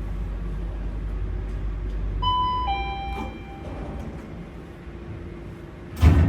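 Steady low rumble, and about two seconds in a two-note electronic chime, a higher tone then a lower one. Near the end a sudden loud rush of noise cuts in.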